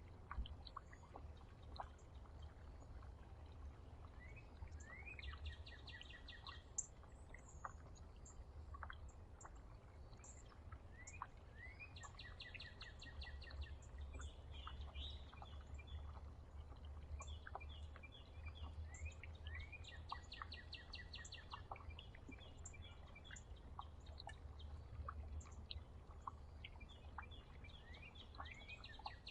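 A songbird at a backyard feeder singing a short, rapid trilled song, repeated about every seven seconds, with scattered high chip notes from other birds over a low background rumble.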